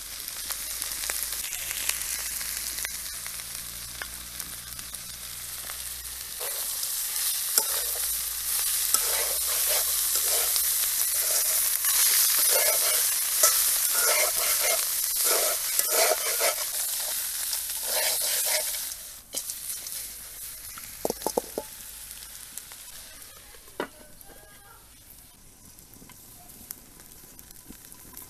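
Spiny gourd and chillies sizzling in oil in an iron wok, stirred with the spatula scraping the pan in repeated strokes. About two-thirds of the way through the sizzle drops to a low hiss with a few sharp clicks.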